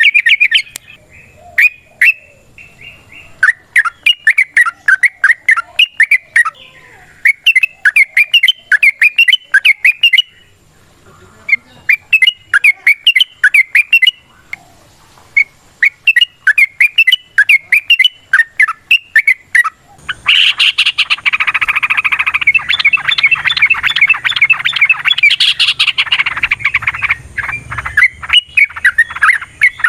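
Yellow-vented bulbul (trucukan) song: a string of rapid, bubbly chattering phrases of a second or two each, with short pauses between. About two-thirds of the way in it turns into a denser, louder run of overlapping calls.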